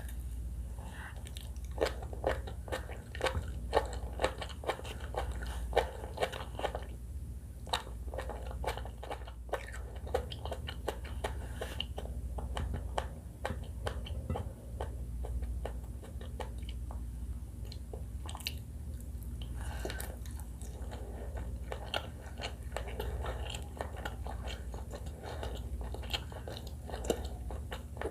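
Close-miked eating of sushi salad: steady chewing and biting with many crisp crunches, over a steady low hum.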